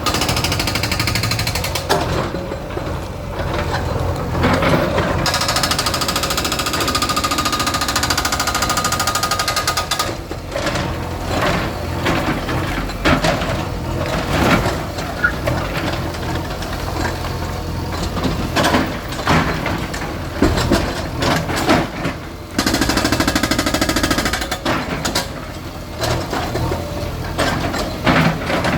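Heavy diesel engine of a demolition bulldozer running steadily, with repeated knocks and crashes of the machine striking and breaking masonry. From about 5 to 10 seconds a hissing rush with a held whine rises over the engine.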